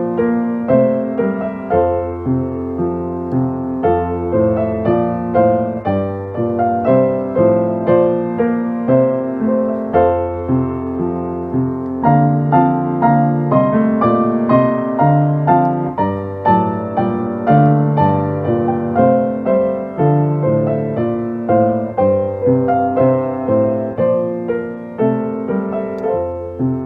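Solo piano or keyboard playing a slow hymn-like piece in chords over held bass notes, with a steady pulse of struck chords.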